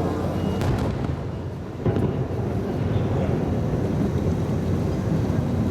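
Fireworks display: shells bursting with a continuous low rumble of booms, one sharp bang about two seconds in.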